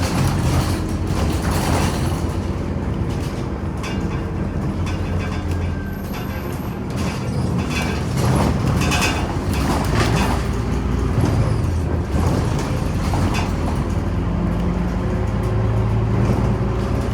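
Scania Omnicity city bus heard from inside the cabin while driving: steady diesel engine running with road noise and cabin rattles. The engine note shifts and strengthens near the end as it pulls.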